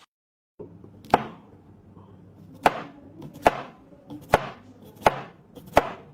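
A knife blade chopping down onto a hard surface: six sharp chopping strikes about a second apart.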